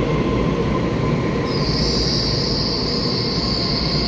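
Taiwan Railway EMU3000 electric express train rumbling along the platform as it slows to a stop. About a second and a half in, a steady high-pitched squeal from its braking sets in over the rumble.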